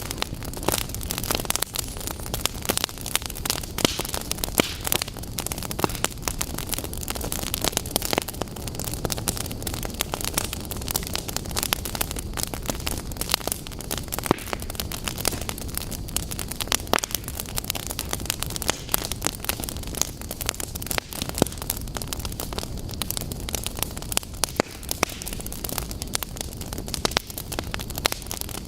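Wood fire burning in a fireplace: a steady low rush of flames with frequent, irregular sharp crackles and pops throughout.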